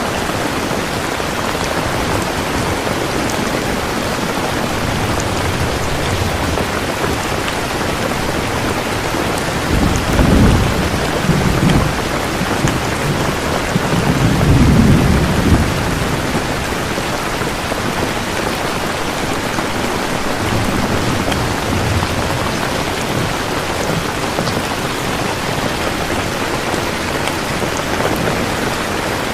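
Steady heavy rain hissing, with low rolls of thunder rumbling through it about ten seconds in and again about fifteen seconds in, and a fainter rumble a little after twenty seconds.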